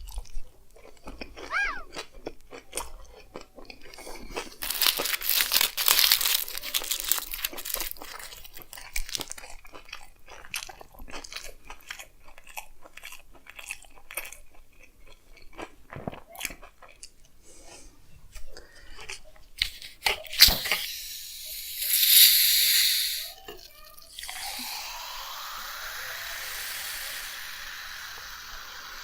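Close-miked chewing and biting of a chicken frankie wrap, with crunching and wet mouth sounds. A short loud rustle comes about 22 seconds in. From about 24 seconds, liquid pours steadily into a vessel, its pitch rising as it fills.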